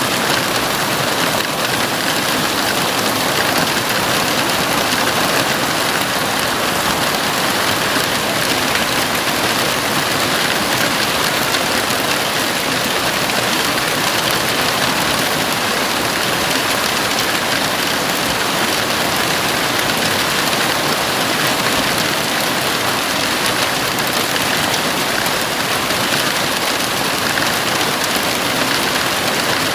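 Heavy rain falling on a house roof, a steady, even hiss with no thunder or breaks.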